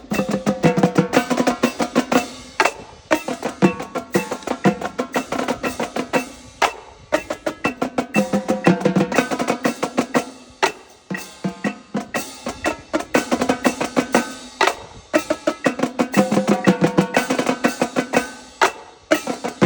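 Marching tenor drums (multi-tenors) playing a fast rhythmic cadence of rapid strokes across several tuned drums, in phrases of about four seconds broken by short pauses.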